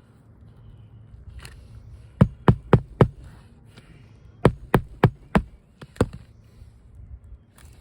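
A hammer driving roofing nails into an asphalt shingle: two quick runs of about four sharp blows each, then one more blow.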